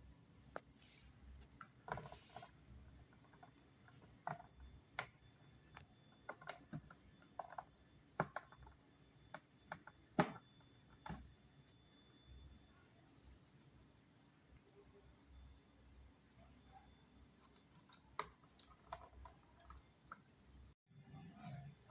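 A high, steady insect trill, pulsing rapidly and evenly, with scattered faint clicks and taps; it cuts out for a moment near the end.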